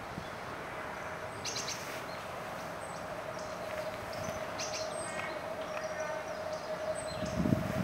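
Small birds chirping: a few brief, high calls scattered through, over a steady low hum, with a low rumble near the end.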